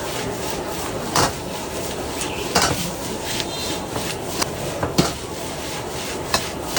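Metal spatula striking and scraping a wok during stir-frying, with several sharp clangs over a steady noise from the wok burner.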